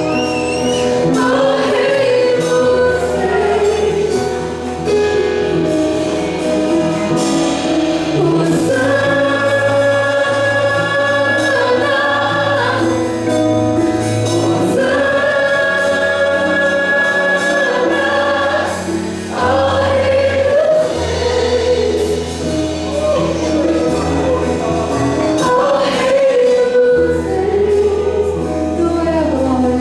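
Gospel worship music: voices singing over a band with steady sustained bass notes, twice holding a long note for about three seconds.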